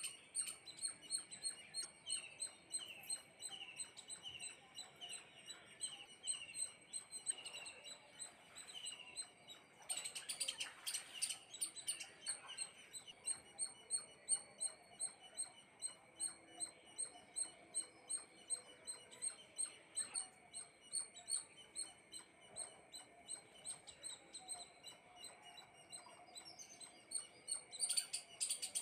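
Small birds chirping: a steady stream of short, high chirps repeating several times a second, with a denser flurry of calls about ten seconds in and again near the end.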